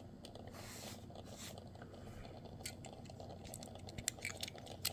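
Faint clicks and rustling of hands handling a small die-cast model truck, with a few sharper ticks about four seconds in.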